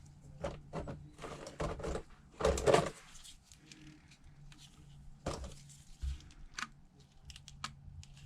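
Small clamps being handled and set onto the phone's edges: a scatter of clicks and light knocks, the loudest cluster about two and a half seconds in.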